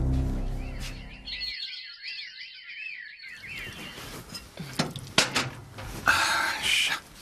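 Background music fading out, then a small bird chirping in quick twittering runs for a couple of seconds. A few sharp knocks and a short rustling noise follow.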